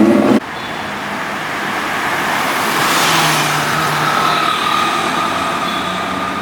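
Road traffic passing: a loud engine note cuts off abruptly just after the start, then a broad rush of tyre and engine noise swells as a vehicle goes by about three seconds in and fades away.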